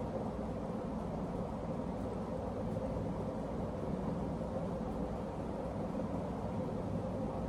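Emerson Legend ceiling fan running steadily: an even rush of air with a faint steady motor hum.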